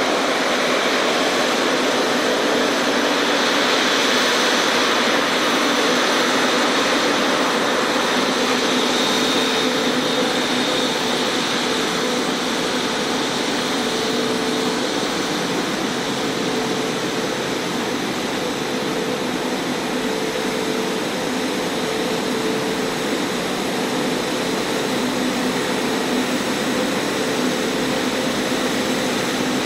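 Jet engines of a Japan Airlines Airbus A350-941, Rolls-Royce Trent XWB turbofans, running with a steady, loud rush and a held high whine over lower hums.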